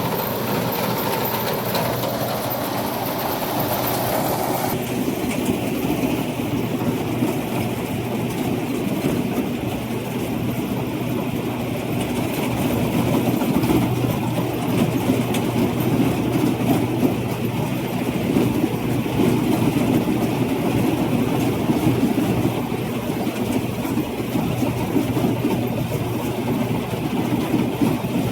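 A rice combine harvester's engine running steadily under load, a continuous low mechanical drone; a higher hiss in the sound drops away about five seconds in.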